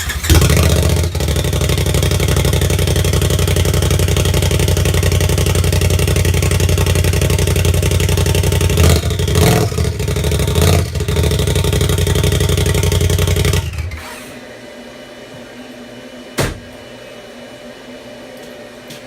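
Polaris RZR turbo engine started and running loud through a straight pipe with its catalytic converter removed, blipped a few times, then shut off suddenly. A single sharp knock follows a couple of seconds later.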